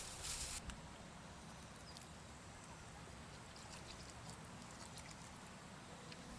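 Faint outdoor ambience with a few small clicks; a louder hiss in the first half-second cuts off suddenly.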